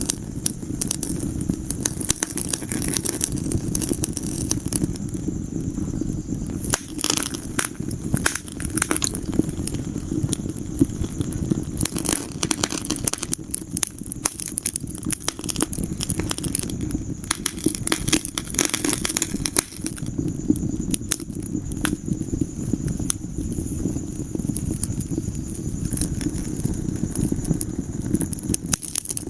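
Wood fire burning in a fireplace: a steady low rumble of flames with many sharp crackles and pops.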